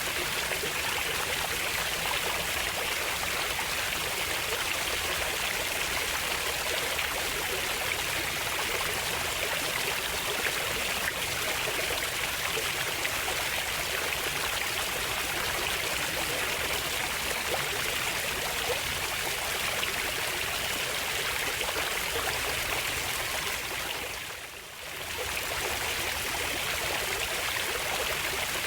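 Flowing water of a stream, a steady rushing babble that briefly fades down and back up near the end.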